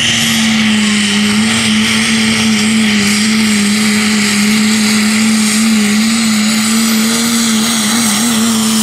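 Diesel pickup truck's engine held at full throttle, a loud, steady high-revving note, as it drags a truck-pulling sled down the track.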